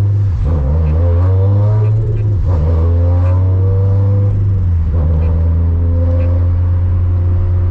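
Turbocharged 2013 Scion FR-S's flat-four engine pulling under acceleration, heard from inside the cabin: the pitch climbs, drops about two and a half seconds in, climbs again, dips near five seconds in, then holds steady.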